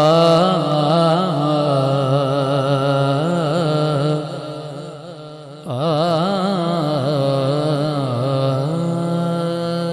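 A naat singer's voice in two long, wordless, heavily ornamented phrases with a pause of about a second and a half between them, over a steady low drone.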